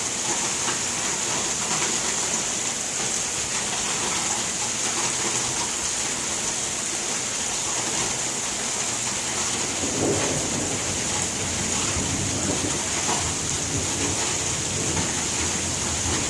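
Steady rain with a thunderstorm, the rain a continuous hiss; a low thunder rumble swells about ten seconds in and rolls on for a few seconds.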